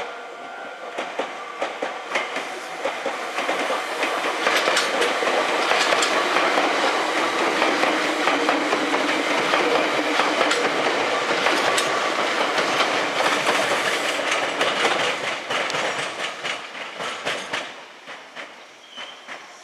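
Meitetsu electric commuter train running on the tracks, its wheels clacking rhythmically over rail joints. It grows louder over the first few seconds, stays loud, and fades away near the end.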